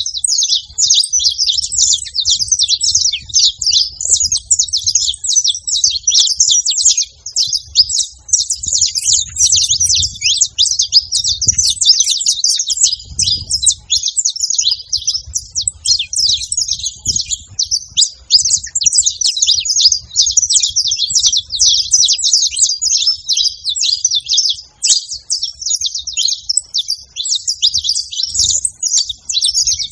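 Saffron finch singing: a fast, unbroken stream of high chirps and trills.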